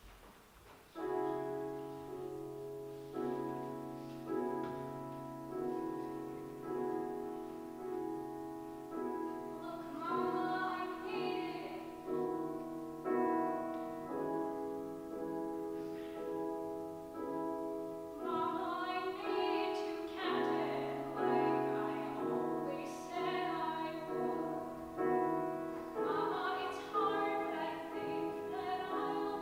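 Piano accompaniment of a musical-theatre song: steady repeated chords starting about a second in, with a singer's voice coming in over them about ten seconds later in phrases.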